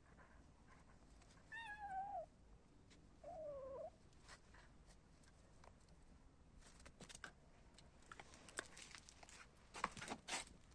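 A kitten meows twice, two short calls about a second and a half apart, the first falling in pitch. Light taps and clicks follow in the second half, loudest near the end.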